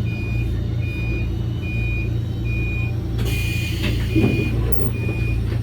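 Electronic warning beeper in a Toyama Chiho Railway train, repeating a short high beep a little more than once a second over the train's steady low hum. A brief hiss comes about three seconds in.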